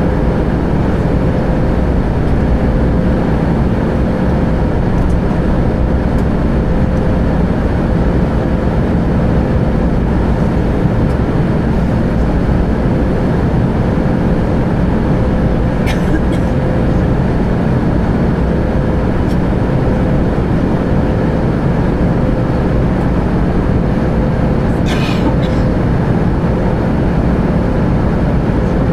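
Steady drone inside an Airbus A320's cabin, with its jet engines running, with a constant low hum running through it. Two brief sharp clicks or rattles sound, about halfway through and again near the end.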